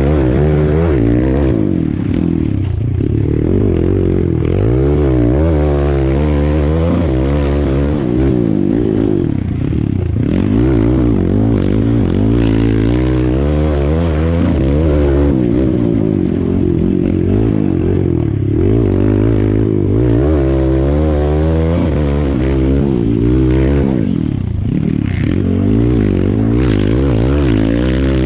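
Kawasaki KX dirt bike engine revving up and down over and over as the throttle is opened and closed, heard close up from the rider's seat.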